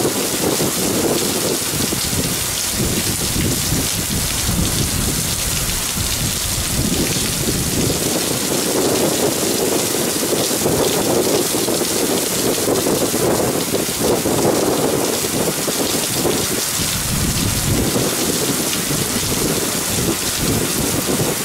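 Heavy rain pouring steadily onto an aircraft carrier's flight deck, with a low rumble underneath that swells and fades.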